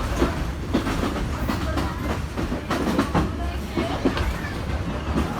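Passenger train running along the track: a steady low rumble with the wheels clacking over rail joints, irregular clicks coming about one to three times a second.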